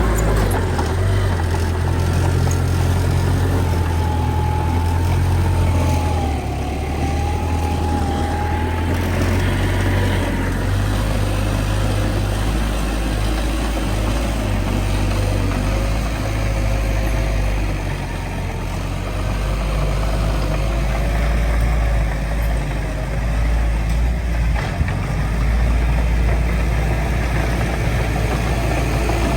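Heavy diesel engine of earthmoving machinery running with a deep, steady drone that shifts in level a few times, with a faint wavering whine above it.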